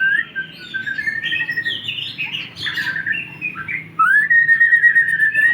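White-rumped shama singing: long clear whistles that rise at the start and then hold, with quick varied higher phrases between them.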